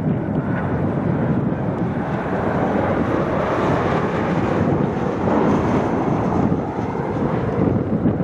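Boeing 737-800's CFM56 jet engines running: a loud, steady rushing noise from the airliner on approach.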